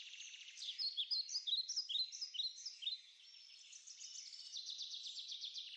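Faint birdsong: a string of short chirping calls for about three seconds, then after a brief pause a rapid, even trill.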